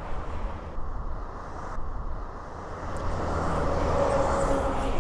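Outdoor road traffic noise, with a vehicle passing that grows louder in the second half.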